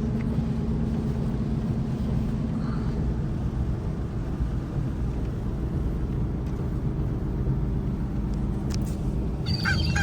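Pickup truck driving, heard from inside the cab: a steady low rumble of engine and road noise with a faint even engine hum.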